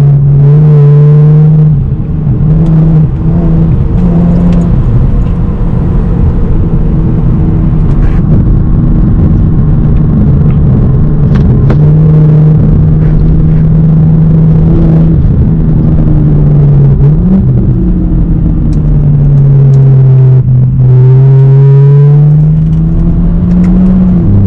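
BMW E92 335i's turbocharged 3.0-litre inline-six, fitted with an upgraded turbo and exhaust, pulling at highway speed. The engine note rises and falls several times with throttle and gear changes, sinks lower about twenty seconds in, then climbs again toward the end.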